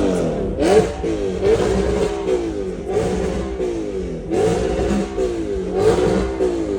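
Audi R8 engine being revved over and over, its pitch rising and falling in quick repeated throttle blips.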